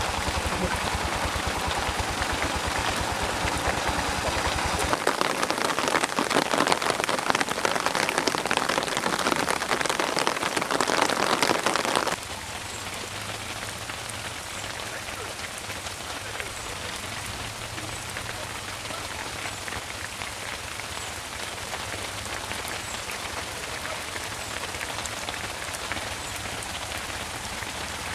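Steady patter of rain, dense with many small drop hits. It is louder for about the first twelve seconds, then drops suddenly to a quieter, even patter.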